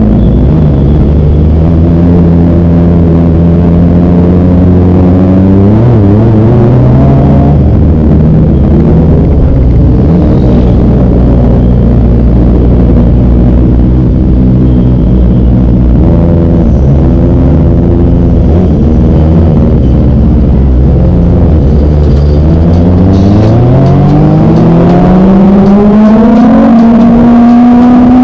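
Kawasaki ZX25R's 250 cc inline-four engine running with short throttle blips, then revved in one long, steady climb over several seconds near the end before dropping back.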